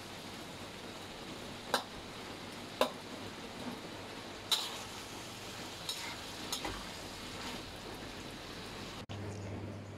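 Beef and vegetables in a thick soy sauce sizzling in a wok while a metal spatula stirs them, with a few sharp clanks of the spatula against the wok. The sizzling cuts off suddenly near the end, leaving a low hum.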